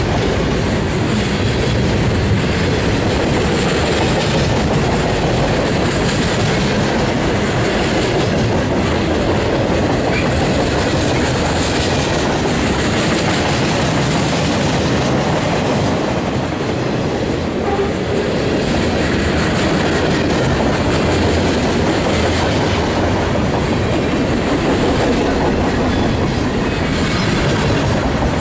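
Freight train cars rolling past close by: a steady, loud rumble and clatter of steel wheels on the rails.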